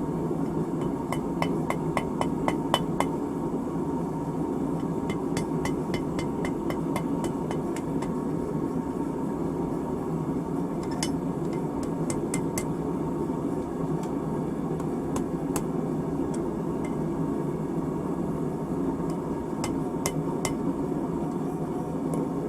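Hammer blows on a horseshoe over a steel anvil, in quick runs of about four ringing strikes a second with pauses between, over a steady low rushing noise.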